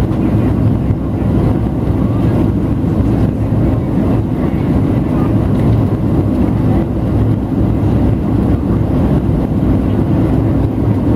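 Cabin noise inside a Boeing 737-700 airliner in flight: its CFM56-7B engines and the air rushing past the fuselage make a steady low rumble.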